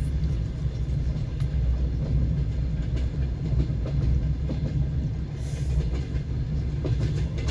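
Passenger train carriage running: a steady low rumble from the wheels on the rails, with occasional faint clacks of the wheels over rail joints, heard from inside the carriage.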